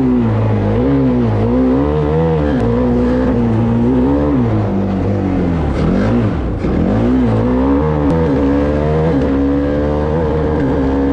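Formula Student race car driven hard, its engine note rising and falling in quick, repeated swings as the driver works the throttle, with a deeper drop and climb about two-thirds of the way through.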